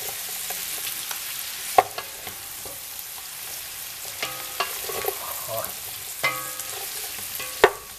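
Pork pieces sizzling and frying in a large aluminium pot as a wooden spoon stirs them through onion and sausage, with a steady hiss. The spoon knocks sharply against the pot twice, about two seconds in and near the end, the second knock the louder.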